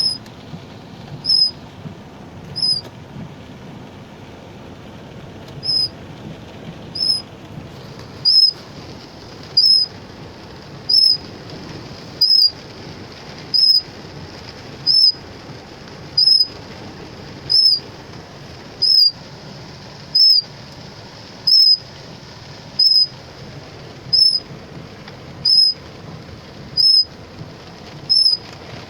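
A short, high chirp repeating at a very even pace, about once every 1.3 seconds, over a steady background hiss. The chirps pause for a few seconds about three seconds in.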